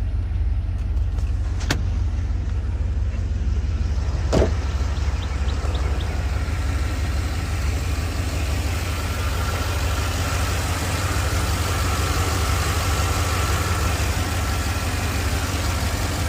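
Cammed Chevrolet Tahoe 5.3-litre V8 with a Sloppy Stage 2 cam idling high and steady, running untuned and rich. Two sharp clicks come through, about 2 and 4.5 seconds in.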